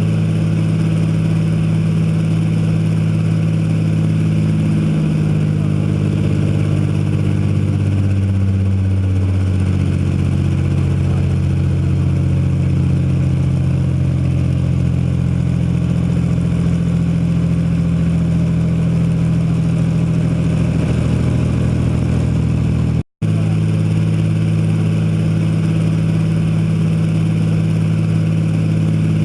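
Rolls-Royce Merlin supercharged V12 aero engine running steadily and loudly, its speed shifting slightly a couple of times in the first ten seconds. The sound drops out for an instant about three-quarters of the way through.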